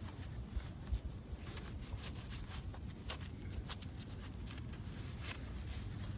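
Handling sounds of a fabric dog boot with a Velcro strap being worked on a dog's foot: scattered small clicks and rustles over a steady low rumble.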